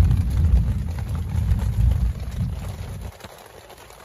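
Heavy rain drumming on a tent and its rain tarp: a low, uneven rumble with light pattering over it, which drops off sharply about three seconds in.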